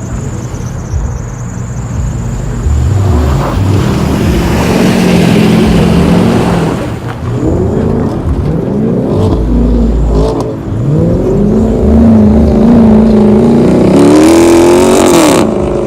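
A car engine revved hard again and again, its pitch repeatedly climbing and dropping, loud throughout, with a rushing noise swelling up around four to six seconds in.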